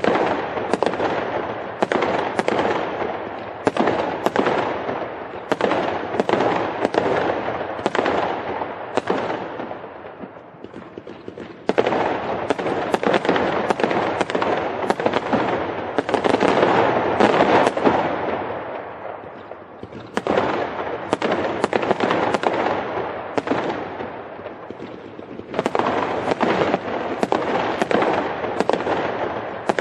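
Fireworks going off in a dense barrage: sharp bangs about one to two a second over continuous crackling, easing briefly about a third and again two-thirds of the way through before building back up.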